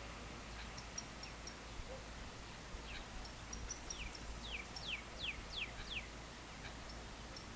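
Wild birds calling at dusk: a few short high chips, then a quick run of six downward-sweeping notes, about three a second. A steady low hum lies underneath.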